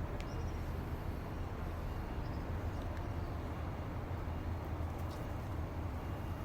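Steady low rumble of outdoor background noise, with a couple of faint clicks near the start and about five seconds in.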